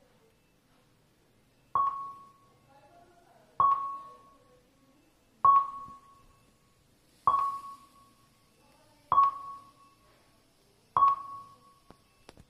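A single high ping repeated six times, about one every two seconds, each ringing out briefly: the opening of a music track played through an F&D T-60X 2.2 speaker system.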